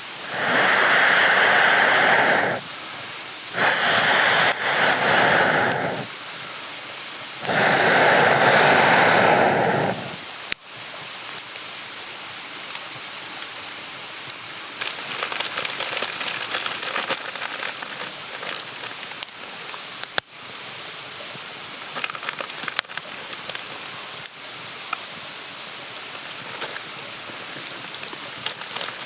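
Three loud bursts of rushing noise, each about two seconds long, in the first ten seconds; then a wood campfire crackling, with small snaps and a couple of sharper pops.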